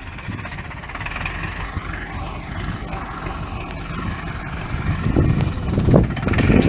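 Tractor engine running while the tractor is bogged in wet mud up to its frame; the engine grows louder near the end.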